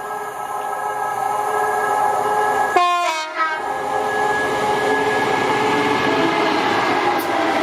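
A train approaching and running past, growing louder over the first few seconds, with several steady tones over the noise of the train. The sound drops out briefly about three seconds in.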